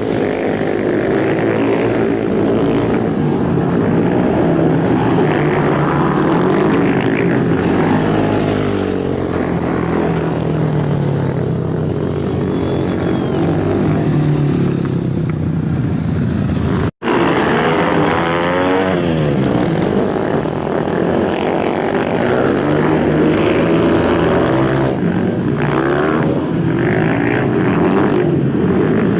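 Several racing motorcycle engines running hard together, their pitches rising and falling as they rev and pass. It cuts out for an instant about seventeen seconds in, then carries on.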